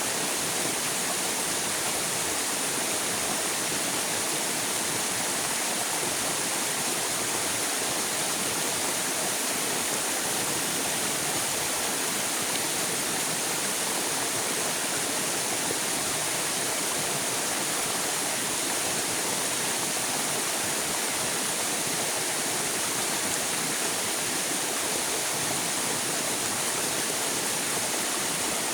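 River water flowing: a steady, even rushing with no breaks or changes.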